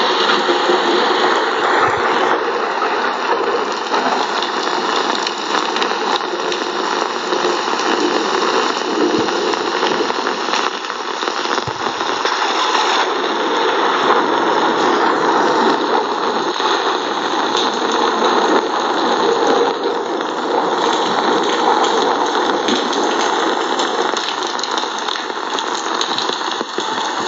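Steady heavy rain: a loud, dense, even hiss with no breaks.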